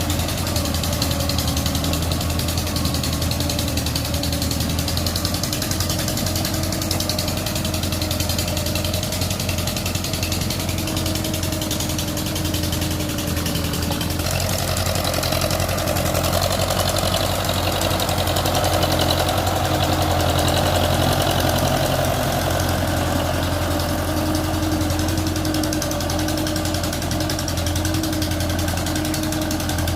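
Belarus MTZ tractor's diesel engine running steadily under load while ploughing, its pitch rising a little about fourteen seconds in.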